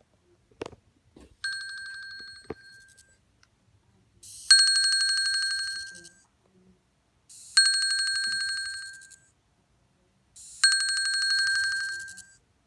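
Apple Watch vibrating, each buzz carrying a high ringing, buzzing noise that swells and fades. There are four pulses about three seconds apart, the first one weaker. The noise is an abnormal sound during vibration, a fault the owner is reporting. A few faint knocks come near the start.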